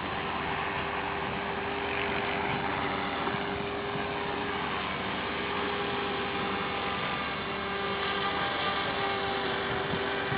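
Align T-Rex 450 V2 electric RC helicopter in flight: the steady whine of its motor and spinning rotor blades, the pitch drifting a little as it manoeuvres, over wind noise.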